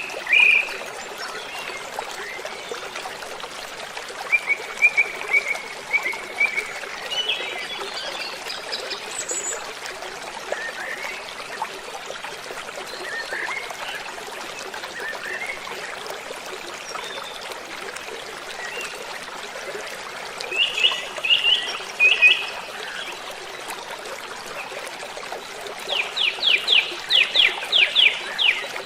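Waterfall: a steady rush of falling water, with birds calling over it in short chirps and phrases. Near the end one bird gives a fast series of about a dozen sharp notes.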